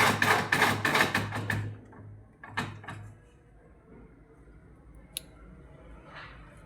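Electric drill boring out the stripped spark plug hole in a cylinder head. It runs with a steady hum and stops about two seconds in. It is run again briefly a moment later, then a single sharp click follows.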